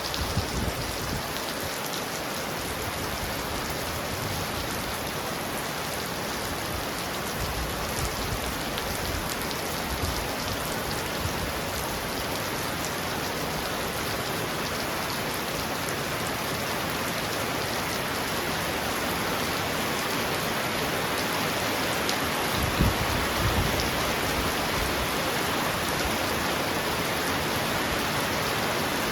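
Heavy rain falling steadily on a roof, a dense even hiss of drops. A couple of brief low rumbles about three-quarters of the way through.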